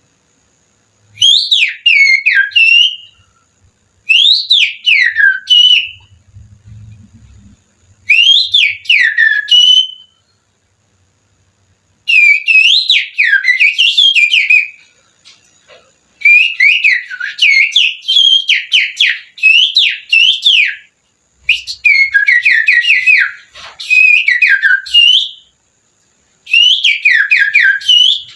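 A person finger-whistling an imitation of oriental magpie-robin (kacer) song, with the little finger in the mouth. About seven phrases of quick, sweeping high notes, each a couple of seconds long, are separated by short pauses.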